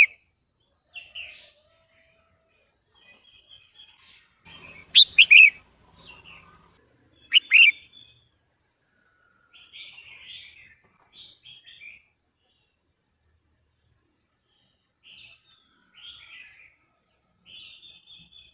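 Female red-whiskered bulbul calling: two loud, sharp, falling calls about five and seven and a half seconds in, with softer chattering notes between them and after.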